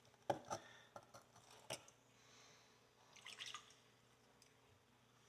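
Faint water drips and small splashes with a few light knocks, as a horseshoe is worked in a sink of hot water and bleach solution.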